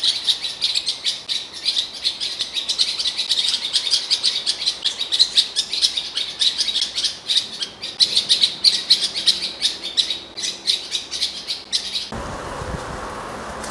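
Blackcap singing: a fast, continuous warble of rapid, varied notes. About a second and a half before the end it cuts off abruptly to a steady rushing noise.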